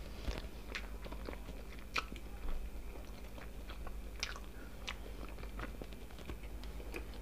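Close-miked mouth sounds of eating soft mashed potato and chicken in cream sauce: quiet, scattered wet chewing clicks and smacks.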